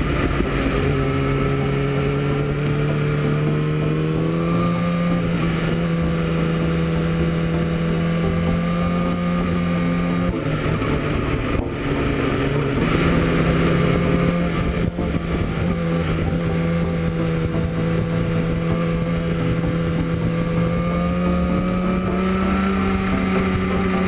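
Inline-four sportbike engine running under way, its pitch held steady and climbing slowly, with a brief drop about ten seconds in before it climbs again. Wind rushes over the microphone.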